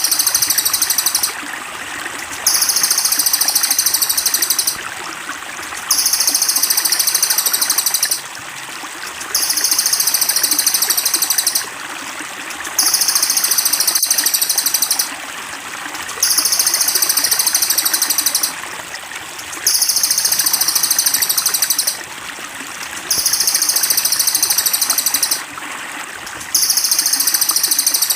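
A songbird's very high, fast trill, looped so that the same roughly two-second phrase repeats about every three and a half seconds, eight times, over steadily trickling water.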